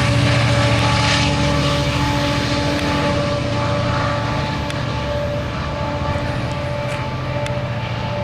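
Sounder commuter-rail diesel locomotive 921 running steadily: a low, pulsing engine hum with several steady whining tones above it, easing off slightly in loudness.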